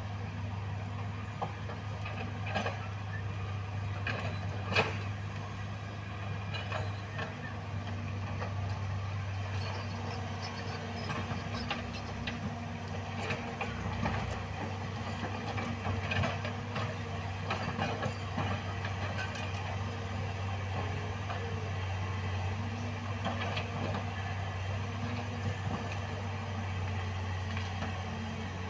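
Heavy diesel machinery running steadily, with scattered metallic knocks and clicks; a sharp knock about five seconds in is the loudest moment.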